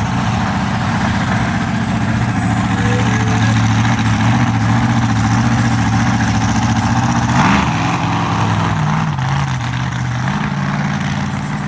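Monster truck engine idling steadily, with a quick rev about seven seconds in before it settles back to idle.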